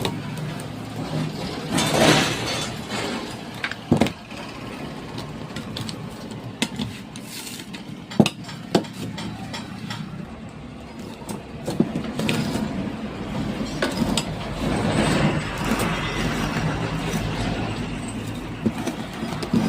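Scattered sharp clinks and knocks of hand work on metal parts, over a steady background noise that grows louder about two-thirds of the way through.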